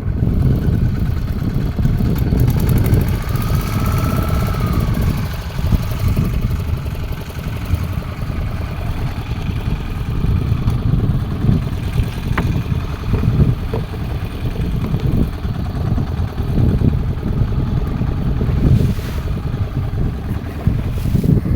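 A fishing boat's engine running steadily at sea, a continuous low rumble.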